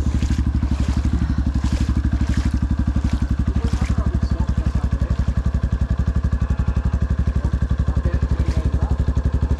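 Motorcycle engine idling with an even, fast pulse of about ten beats a second, after being restarted from a drop in a creek. A few short noisy sounds come in the first few seconds.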